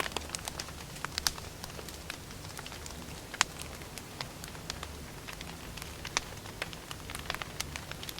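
Wood fire crackling: irregular sharp pops and snaps over a low steady rumble, with one louder pop about three and a half seconds in.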